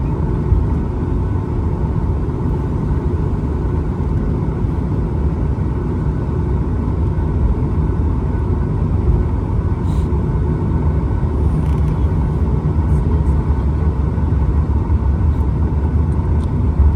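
Steady low rumble of an airliner's jet engines and airframe heard from inside the passenger cabin, with a constant hum above it.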